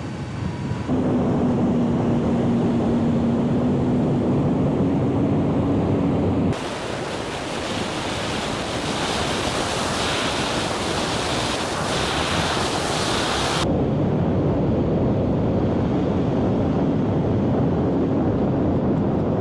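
Heavy wind buffeting on the microphone with beach surf, loud throughout. The hum of the RC model plane's electric motor and propeller is heard as a steady tone for the first few seconds and again faintly near the end. The sound changes abruptly about a second in, around six seconds in and around fourteen seconds in.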